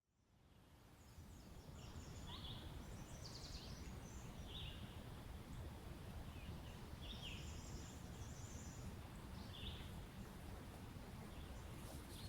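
Outdoor nature ambience fading in over a steady low rumble. A bird repeats a short call about every two to three seconds, with faint high twittering alongside.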